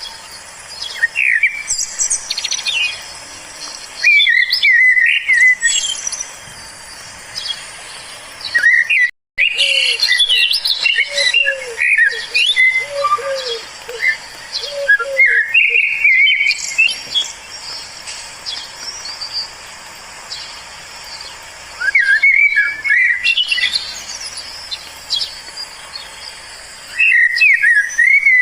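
Wild birds singing and chirping in short, repeated, twittering phrases, with a run of about ten low, arched notes in the middle. The sound cuts out briefly about nine seconds in.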